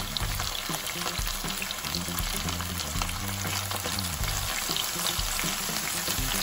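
Chicken, sliced onions and chopped tomatoes sizzling in a frying pan, a steady crackling hiss, as the tomatoes are slid in and the mix is turned with metal tongs.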